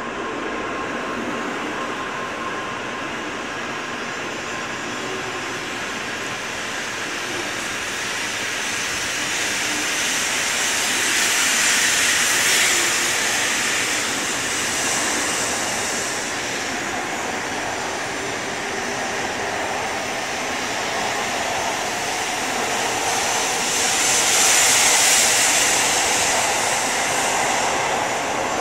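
N700A-series Shinkansen train pulling out of the station and gathering speed past the platform: a steady rushing hiss of the passing cars, swelling louder twice, about twelve and twenty-five seconds in.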